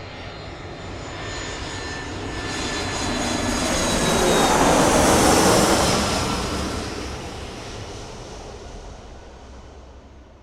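Airplane flying past overhead: engine noise builds to a peak about five seconds in, then fades away, its whine sliding lower in pitch as it passes.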